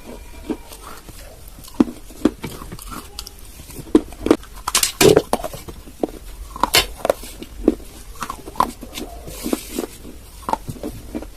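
Close-miked crunching and chewing of hard clay pieces: irregular sharp bites and gritty crunches, loudest in a cluster about five seconds in.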